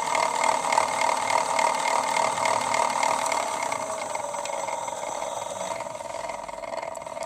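Toy washing machine's small electric motor running with a load of bricks, a steady whine that gradually fades toward the end.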